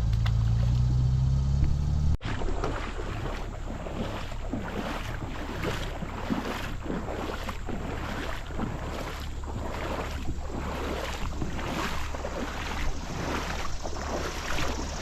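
Rushing creek water with wind rumbling on the microphone. There is an abrupt break about two seconds in, after which the water noise carries on.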